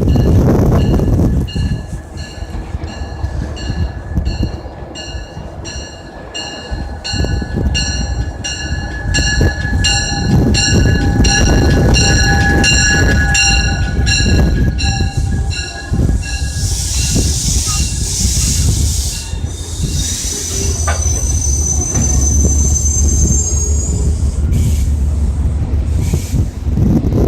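A Metro-North passenger train with a P32AC-DM locomotive passes, rumbling heavily. A bell rings steadily about twice a second through the first half. In the second half its wheels squeal with a thin high whistle.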